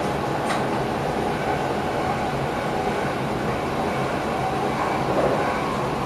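Passenger train running, heard inside the driver's cab: a steady rumble and rail noise, with one short tick about half a second in.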